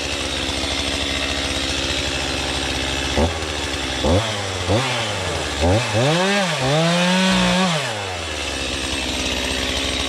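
Chainsaw idling, revved up and back down in several short bursts from about three seconds in, then held high for nearly two seconds before dropping back to idle.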